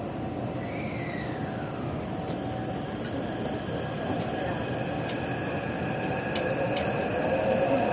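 Metro train running: a steady rumble with high whining tones from the traction motors. A whine falls in pitch about a second in, a few faint clicks and rattles come through, and the sound grows slowly louder near the end.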